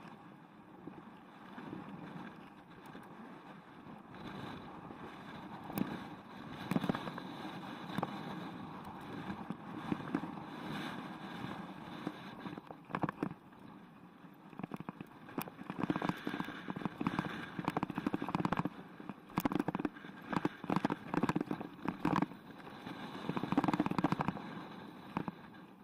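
Mountain bike ridden over a rough dirt trail: steady tyre and wind noise with frequent knocks and rattles from the bike jolting over bumps, busiest in the second half.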